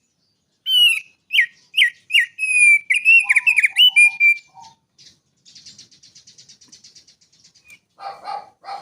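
Mountain prinia singing: a quick run of loud, sharply down-slurred whistled notes ending in a short trill, then a faint rapid buzzy chatter, and a harsher lower call near the end.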